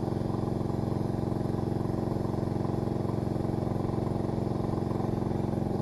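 Miller Blue Star engine-driven welder/generator running steadily at a constant speed.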